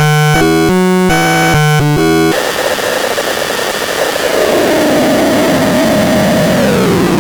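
MATRAXON C1 synthesizer playing a rhythmic run of short pitched notes, which about two seconds in gives way to a harsh, noisy texture whose pitch slides steadily downward.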